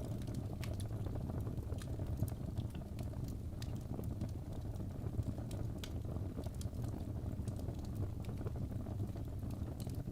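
Wood fire burning in a fireplace: a steady low noise of the flames with scattered sharp crackles and pops from the burning logs.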